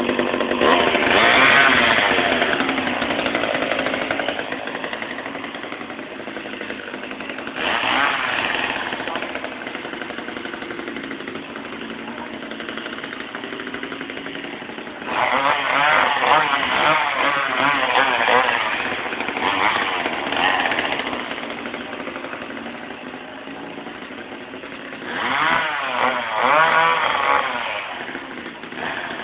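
Eager Beaver two-stroke chainsaw running, idling steadily with its throttle blipped up and down several times: near the start, about eight seconds in, in a long stretch through the middle and again near the end.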